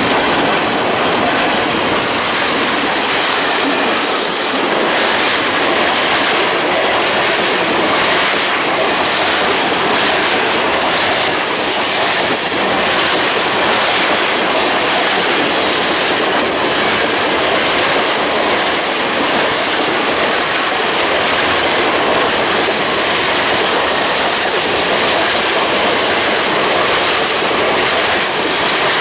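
Train cars rolling past at speed: a loud, steady rush of steel wheels on rail, with scattered clicks of wheels passing over rail joints.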